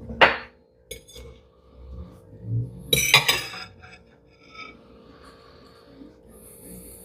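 Glass clinks and knocks as a beer bottle is handled and set down on a hard counter, the loudest knock about three seconds in, with a short hiss near the end.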